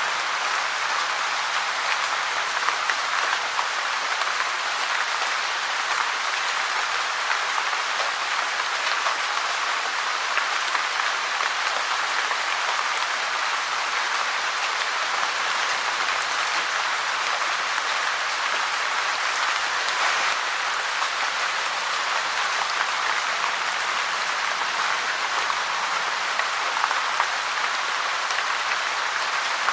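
Steady rain falling, a dense even patter of drops on a hard surface.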